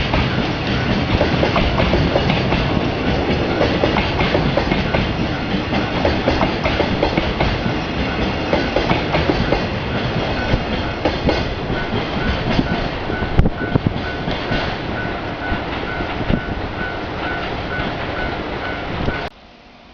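JR Freight container train's wagons rolling past close by, with loud steady rumble and rapid wheel clickety-clack over the rail joints. The sound cuts off abruptly near the end.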